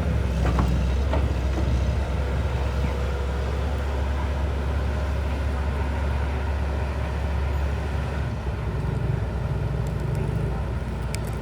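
A heavy engine running steadily with a low rumble; the deepest part of the rumble drops a little about eight seconds in.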